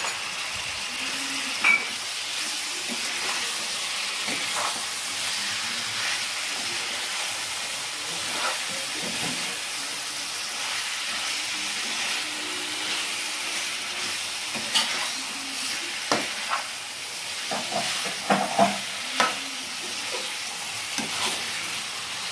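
Chicken pieces sizzling as they fry in oil in a pan, stirred with a steel slotted spoon that scrapes and clinks against the pan. The clinks come thicker in the second half.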